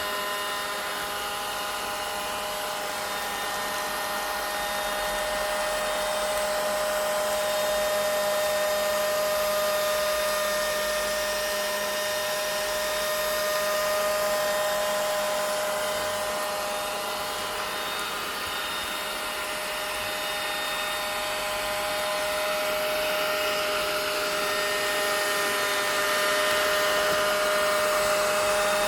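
Vacuum cleaner running steadily: an even rushing of air with a steady motor whine, its loudness slowly swelling and easing a little.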